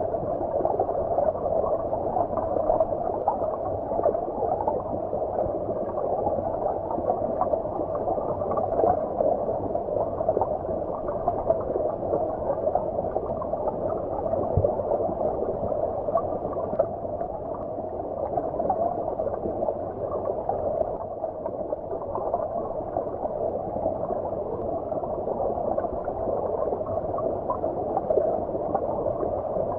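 Flowing stream water heard from underwater: a steady, muffled gurgling rush with its energy in the low-middle range and no high hiss.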